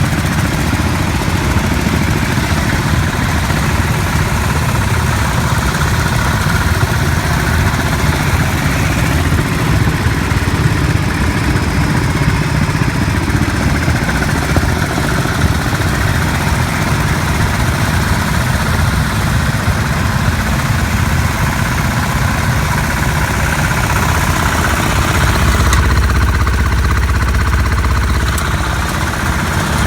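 Sears Suburban garden tractor engine running steadily; its low rumble grows heavier about 25 seconds in and eases near the end.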